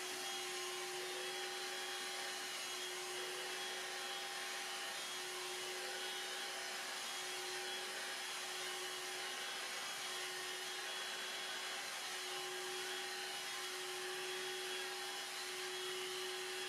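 Hoover Air Cordless 20V handheld vacuum running with its motorized turbo brush-roll tool on a thick wool rug: a steady hiss of suction with a constant hum.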